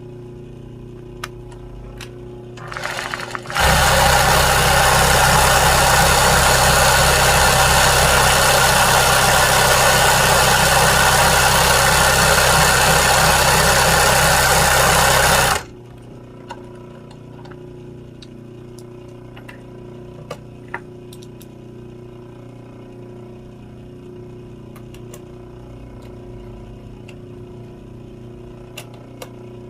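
A sewing machine stitching at a steady high speed for about twelve seconds, starting about three and a half seconds in and stopping abruptly. A few faint clicks follow.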